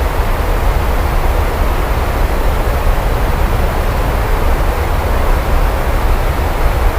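Steady heavy rain, with a deep, continuous low rumble of thunder underneath.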